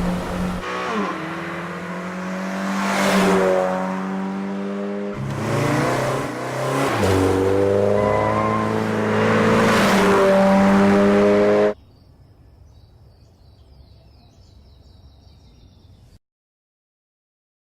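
Toyota 86's 2.0-litre flat-four engine accelerating hard: the pitch climbs, drops at a gear change and climbs again several times. It cuts off suddenly near twelve seconds in, leaving only a faint sound and then silence.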